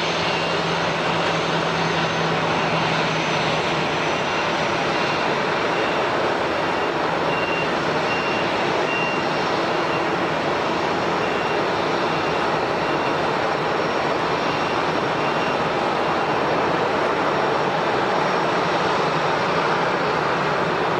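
Jet airliner engines running, a steady rush of noise with faint high whining tones; a low hum fades out about four seconds in.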